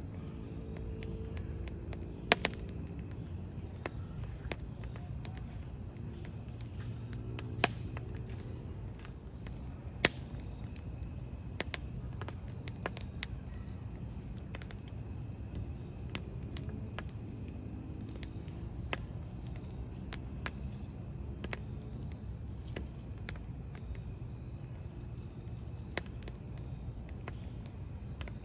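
Wood campfire crackling, with scattered clicks and a few sharp pops, over the steady high chirping of crickets.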